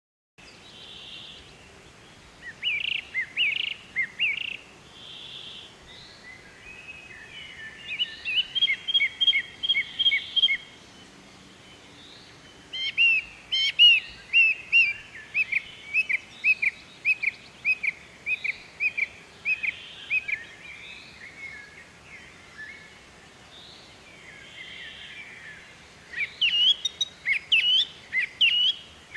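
Birds chirping in bouts of quick, repeated chirps, one series running for several seconds, over a steady faint background hiss.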